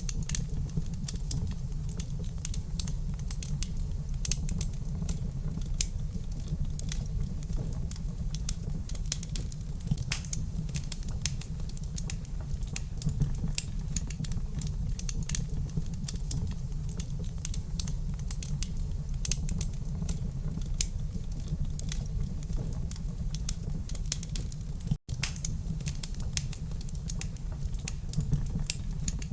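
Wood fire crackling in a fireplace: a steady low rumble with frequent irregular sharp pops and crackles. The sound cuts out for an instant near the end.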